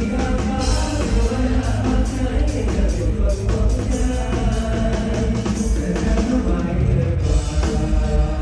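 A live Thai mor lam band playing lam sing, with amplified singing over a steady drum-kit beat.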